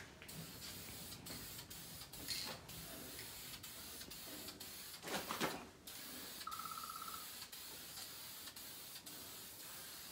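Red primer being sprayed onto metal baler parts: a faint, steady hiss of spray that stops and starts in short breaks.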